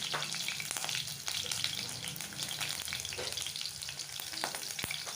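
Shallots frying in hot mustard oil in a pan, sizzling steadily with many small crackles and pops.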